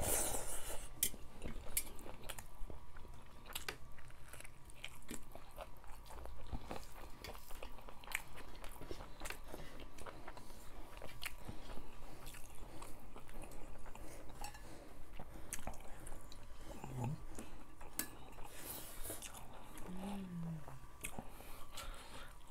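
Close-up eating sounds of rice and fish soup eaten by hand: chewing with many short wet smacks and clicks of the mouth, and a few light clinks of cutlery on the dishes. Two brief low hums are heard, around 17 and 20 seconds in, the second falling in pitch.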